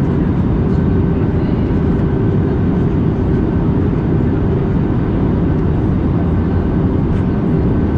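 Steady cabin noise of an Airbus A320neo airliner in flight on approach: an even rush of airflow and engine hum, with a faint steady whine above it.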